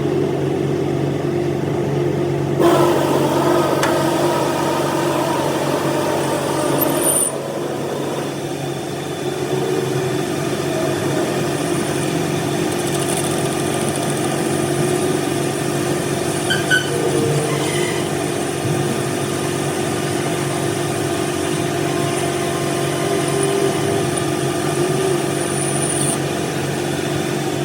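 A machine running steadily with a constant-pitch hum, an engine or electric motor. It grows louder and rougher for a few seconds, starting about 3 seconds in.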